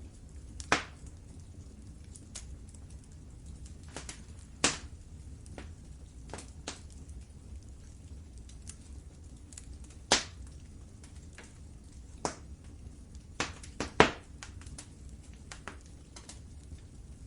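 Wood fire crackling in a fireplace: a low steady rumble of the flames under scattered faint ticks and occasional sharp pops, with a quick cluster of louder pops about two-thirds of the way through.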